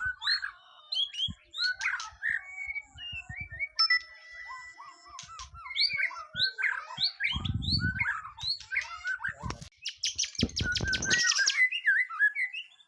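White-rumped shama (murai batu) singing a rapid, varied song of whistles and chirps without pause. Two short bouts of low rumbling noise come about seven and ten seconds in.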